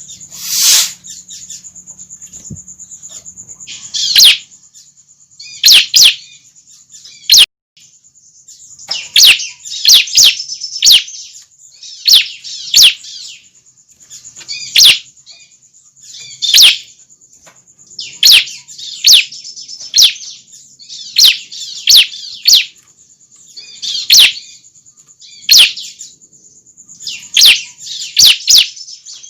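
Young bar-winged prinias (ciblek) calling: loud, sharp, high chirps every second or two, often in quick clusters, over a continuous thin, high buzz.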